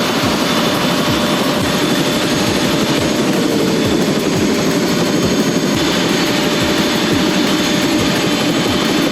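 Helicopter in flight: a steady, loud rush of rotor and engine noise with a low pulsing beat beneath it.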